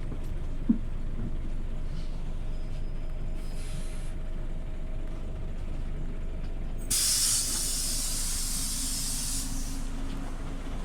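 Scania OmniLink city bus engine running as a steady low rumble, with a single click about a second in. About seven seconds in comes a loud hiss of compressed air from the bus's air system, lasting about two and a half seconds.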